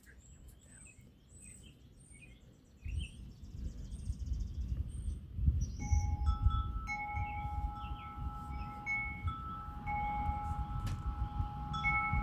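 Wind chimes ringing in gusty wind, several held tones striking and overlapping from about halfway in, over low rumbling wind buffeting the microphone that starts about three seconds in. Birds chirp in the first few seconds.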